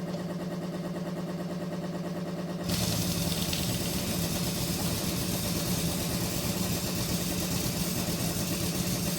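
An engine running steadily with an even, unbroken hum. A broad hiss joins about three seconds in and the sound gets louder.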